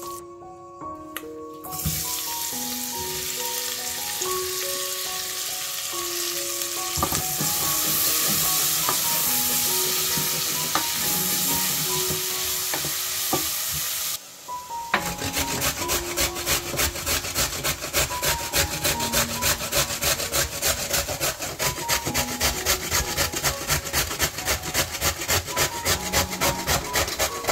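Chopped onions sizzling in a stainless steel pot as they are stirred with a wooden spoon. About halfway through, this gives way to a carrot being grated on a metal box grater: a steady rhythm of rasping strokes, a little over two a second.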